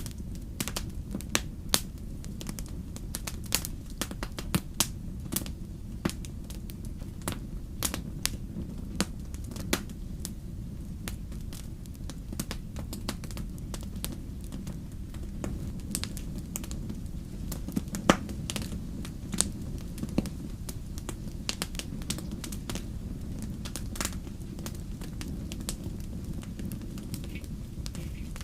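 Wood fire crackling in a fireplace: irregular sharp pops and snaps over a steady low rumble, with one louder pop about two-thirds of the way through.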